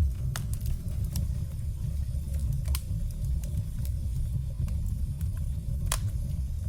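Firewood burning: a steady low rumble of the fire with sharp, irregular crackles and pops, the loudest about six seconds in.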